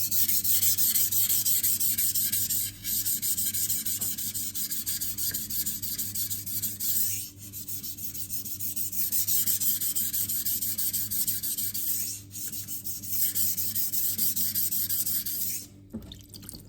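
Knife blade stroked back and forth on an 800-grit King Neo silicon carbide whetstone, a continuous gritty scraping. It breaks off briefly about every four to five seconds and stops near the end.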